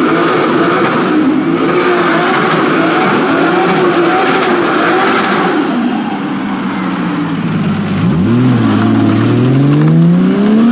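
Loud modified car engine revving with its pitch wavering up and down, then a car accelerating with a steadily rising pitch over the last few seconds.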